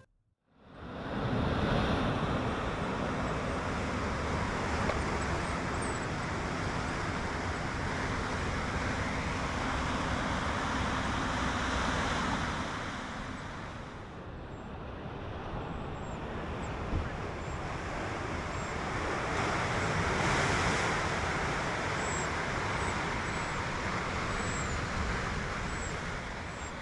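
Road noise from a car driving along: a steady rush of tyres and wind, swelling and easing twice.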